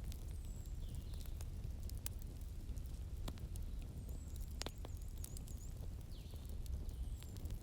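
Wood fire crackling, with sharp irregular pops and snaps over a steady low rumble of the flames.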